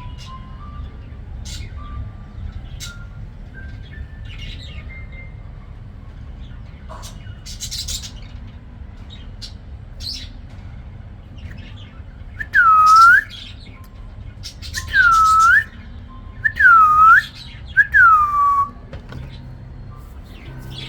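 Pet budgies (budgerigars) chirping in short scattered calls. In the second half come four loud, clear whistled calls, each about a second long, dipping and then rising in pitch.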